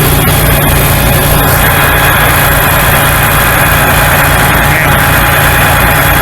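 Kenworth semi truck's diesel engine running steadily at a raised idle of about 1,000 to 1,100 rpm, warming up after a cold start at ten below zero.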